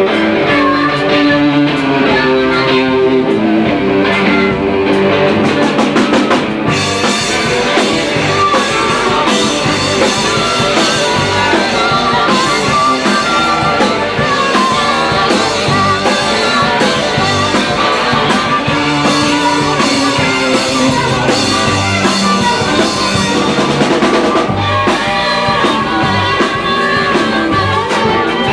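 Blues band playing live: guitar over a drum kit. The sound gets brighter and fuller about six seconds in and eases back near the end.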